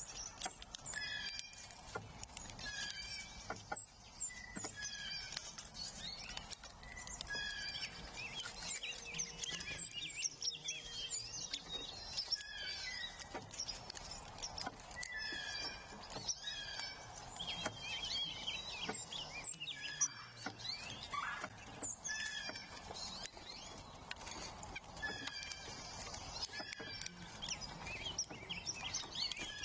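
Several wild songbirds singing and calling over one another in a spring chorus, phrase after phrase of whistles and chirps overlapping.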